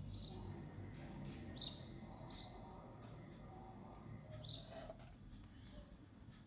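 A small bird chirping: four short, high chirps spaced a second or two apart, over a faint low background hum.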